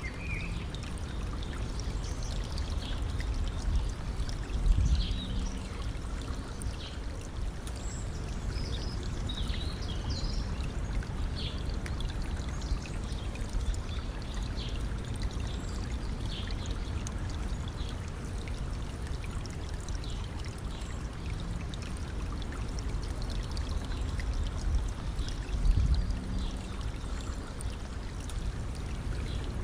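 Stream water running and trickling steadily, with a few short high bird chirps in the first half. Two brief low rumbles, about five seconds in and near the end, are the loudest moments.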